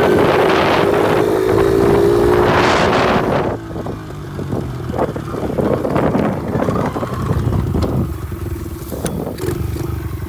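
Honda XR70 pit bike's small single-cylinder four-stroke engine running hard at a steady high pitch with wind buffeting the microphone, then backing off about three and a half seconds in to lower, uneven revs with some clatter.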